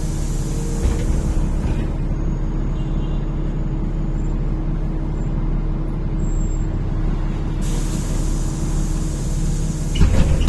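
City bus (NefAZ-5299-40-52) running with a steady low engine drone while its pneumatics let off loud hissing air twice, at the start and again from about three quarters of the way in. Near the end there is a brief clatter of knocks.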